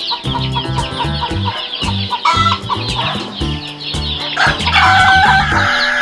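Chicken sound effects over background music with a steady bass beat: chicks peeping rapidly and chickens clucking, then a rooster crowing loudly from about four and a half seconds in.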